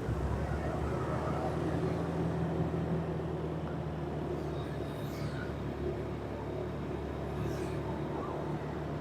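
A vehicle's engine runs at a steady pitch while driving, with road and traffic noise underneath.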